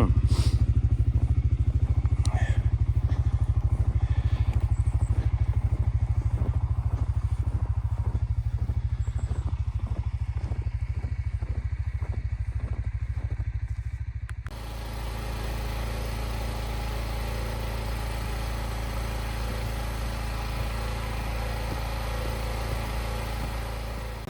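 ATV engine running steadily. Its note changes abruptly, dropping in level a little past halfway, and runs on as a quieter, smoother drone.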